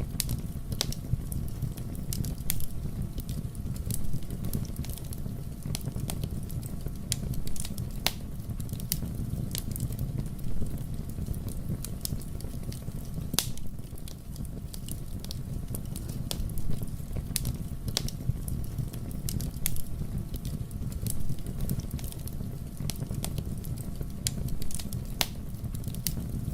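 Wood fire burning in a fireplace: a low steady rumble under irregular sharp crackles and pops, with louder snaps every second or two.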